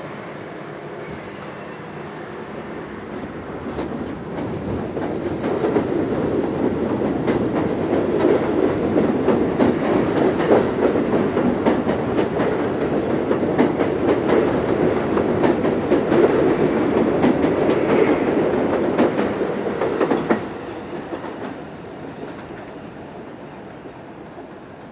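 R32 subway train pulling out and passing, a loud rumble with its wheels clacking over rail joints. The sound builds over the first few seconds, holds steady, drops sharply near the end as the train clears, then fades.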